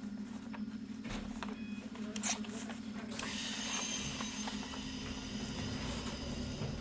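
Interior sound of a Hakone Tozan Railway Moha 1 electric car with nose-suspended traction motors: a steady low hum with a few clicks and knocks. From about three seconds in, wheel-on-rail running noise and a low rumble swell up.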